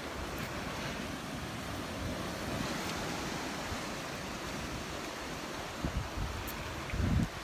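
Ocean surf washing steadily onto the beach, with wind buffeting the microphone in low gusts near the end.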